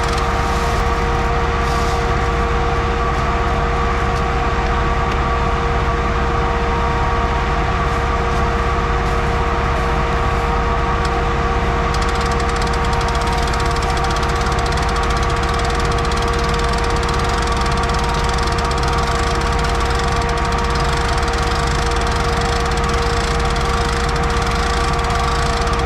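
An engine running steadily at a constant speed, with a strong unchanging hum.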